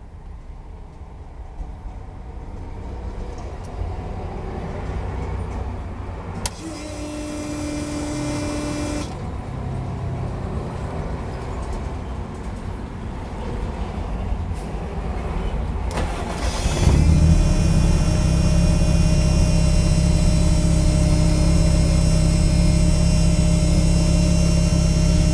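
Lancia Delta engine, running on a newly fitted standalone engine management system, being started: a low rumble and a brief whine, then about seventeen seconds in the engine catches and settles into a steady idle.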